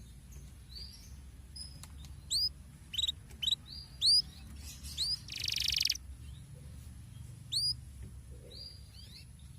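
Canary song: a run of sharp, upward-sweeping chirps with a dense, buzzy trill about five seconds in.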